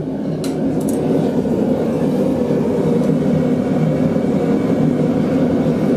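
A forge running with a steady rushing noise, with a couple of faint metal clinks about half a second and a second in.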